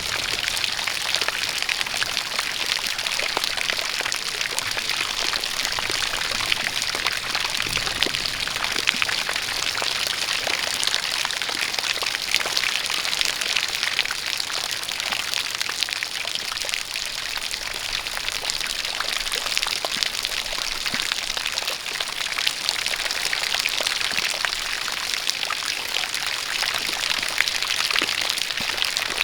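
Steady rain with many fine drop patters, mixed with a spout of water pouring and splashing in a continuous even hiss.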